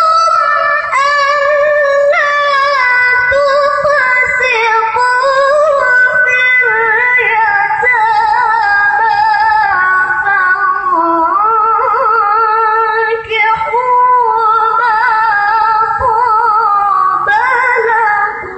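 Melodic Quran recitation (tilawah): a single high voice holds long, ornamented notes that bend and waver through one continuous phrase, ending right at the end.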